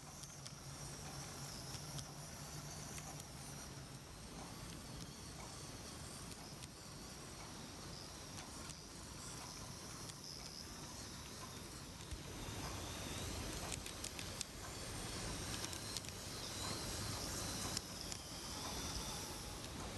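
Kato N-gauge Green Mover Lex model tram running, a faint steady hiss and whir of its small motor and wheels on the track, a little louder in the second half.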